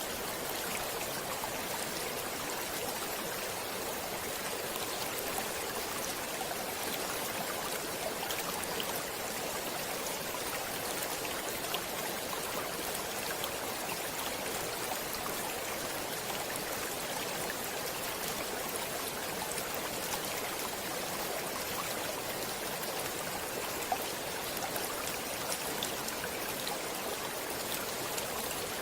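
Flowing stream water running steadily: an even rushing hiss with small scattered splashes.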